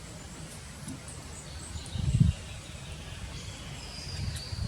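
Faint, high bird chirps and a thin held whistle in the background, over a low rumble of handling noise on the microphone, with a louder low bump about two seconds in.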